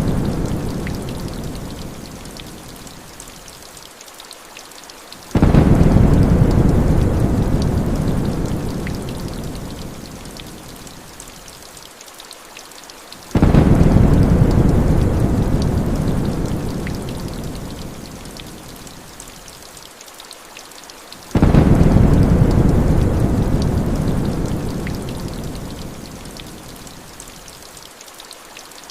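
Heavy rain falling steadily, with a deep thunder rumble that breaks in suddenly and fades out slowly, three times at even intervals of about eight seconds.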